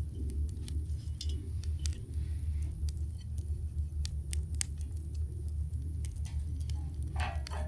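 Wood campfire burning, with sparse sharp crackles and pops over a steady low rumble, and a short noisy rush near the end.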